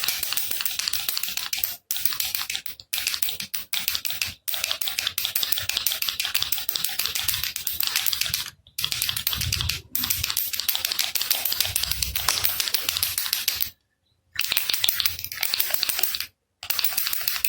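Baby rattle shaken rapidly and continuously, a dense stream of rattling clicks broken by several brief pauses, the longest about two-thirds of the way through.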